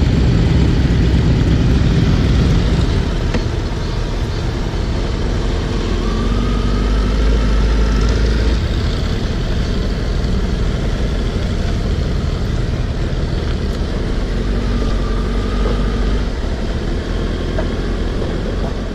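Motorcycle engine running steadily at low revs, a continuous low rumble.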